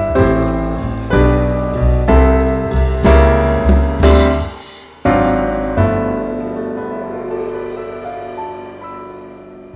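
Background piano music: chords struck on a steady beat, ending on a final chord about halfway through that rings on and fades out.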